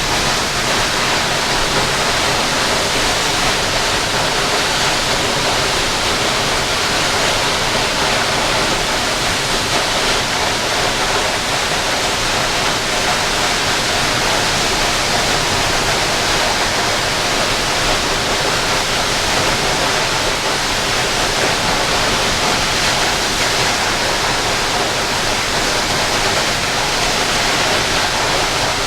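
Waterfall: water falling and splashing in a loud, steady rush that does not let up.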